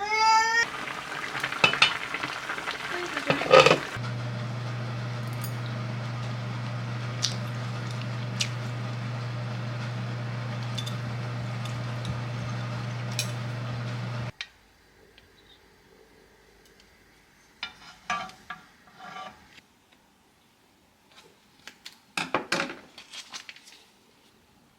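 Cooking in a home kitchen: metal utensils and dishes clinking against pots. A steady low hum with sizzling-like hiss runs for about ten seconds, cuts off suddenly, and a few scattered clinks follow.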